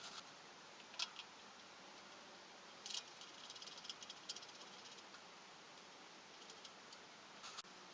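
Sparse light clicks and short rattles, a few seconds apart, over a faint steady hiss: small parts and tools being handled during engine work.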